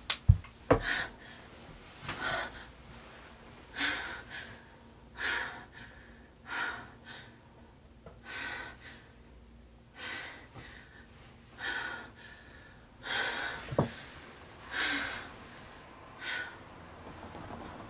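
A woman breathing heavily in shaky gasps, roughly one breath every second or so, the distressed breathing of someone just woken from a nightmare. A couple of sharp knocks sound in the first second.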